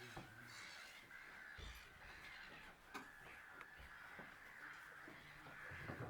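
Faint, distant birds calling, a continuous chatter of short harsh calls, with a single click about three seconds in.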